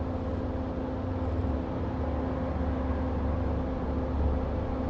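Hot air rework station blowing steadily over the logic board to dry the flux and reflow the Tristar chip, a constant rush of air over a low electrical hum, the low end swelling briefly about four seconds in.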